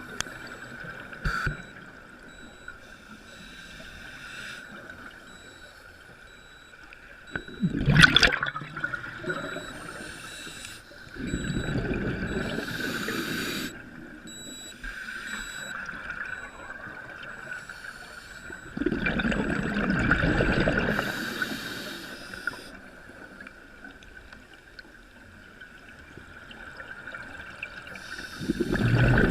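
Water splashing and sloshing against a boat, in surges every few seconds over a faint steady tone.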